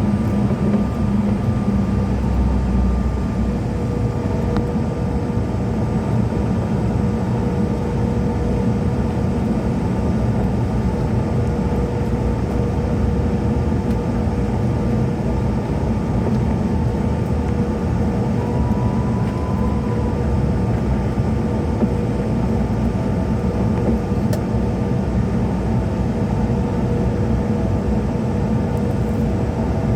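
Steady drone of a CRJ-700's rear-mounted GE CF34 turbofan engines at low power before takeoff, heard inside the passenger cabin, with a faint steady whine over a low rumble.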